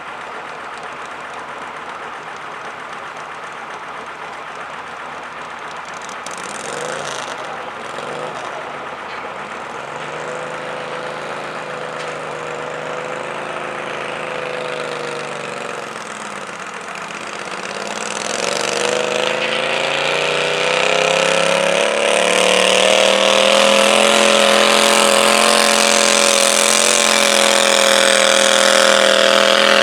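Stock-class garden tractor engine running: its note dips, then climbs from about 18 seconds in and holds steady and loud at high revs while pulling the sled.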